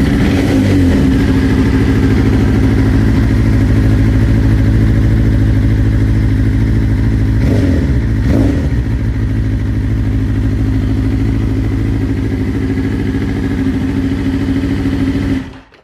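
2022 BMW S1000RR inline-four engine idling roughly on three cylinders, one cylinder not firing, a fault BMW put down to a bad ECU. It revs up and back down briefly twice in the middle, then shuts off just before the end.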